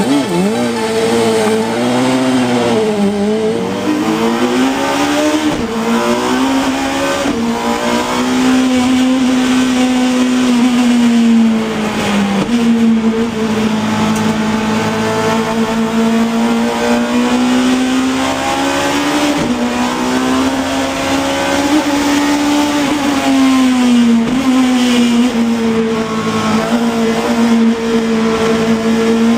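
Yamaha R1 motorcycle engine in a Classic Mini, run at high revs on a sprint run and heard from inside the car. Its note climbs and drops back again and again, with sudden falls in pitch at gear changes.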